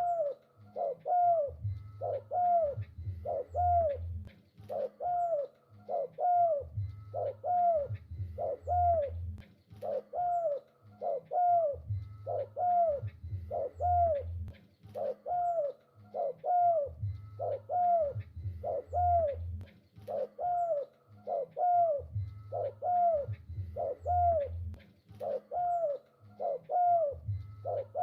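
Spotted dove (tekukur) cooing in full song: short, arching coo notes repeated steadily, a few a second, in phrases that recur every couple of seconds.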